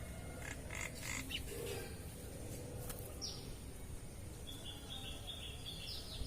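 Birds calling: a few short harsh notes about a second in, a single falling high note near the middle, then a quick run of short high notes near the end.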